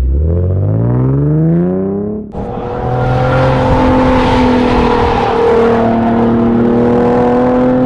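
Nissan 370Z's 3.7-litre V6 through a Fast Intentions cat-back exhaust and Invidia high-flow cats, revving up with a rising note for about two seconds. It then cuts to a second clip of the engine running at a steady, loud, raspy note that wavers slightly.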